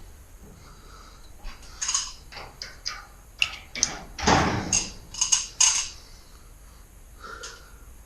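Irregular clicks and clinks of hard objects being handled, with one heavier knock about four seconds in.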